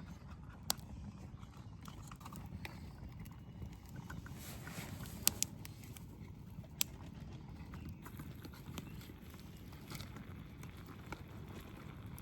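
Scattered light clicks and taps, as of camp cookware and a meal being handled, over a faint steady low rumble.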